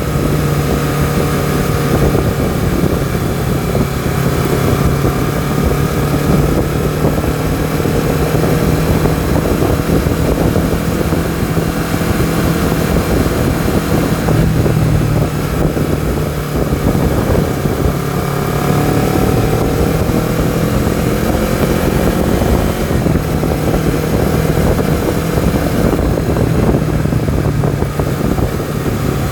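Honda CBR250RR motorcycle engine and exhaust running under way, holding a steady note whose pitch rises and falls a little as the revs change, with wind noise over it.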